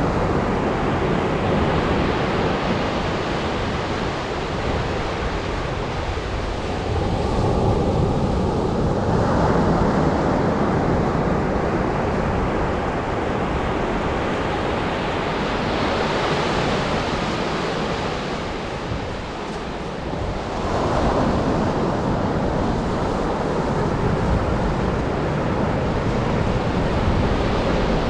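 Atlantic surf breaking and washing up a sandy beach, a steady rush that swells with each incoming wave, about a third of the way in and again near three-quarters. Wind rumbles on the microphone underneath.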